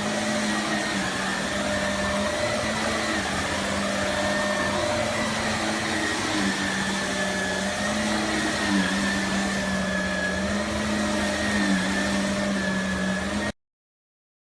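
Shark Navigator Lift-Away upright vacuum's motor running steadily, a hum with a high whine whose pitch dips slightly now and then. The sound cuts off abruptly near the end.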